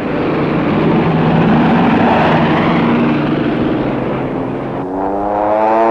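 Propeller aircraft engines passing, a dense rushing drone, then after an abrupt change about five seconds in a second engine hum that rises slightly in pitch and falls back as it goes by.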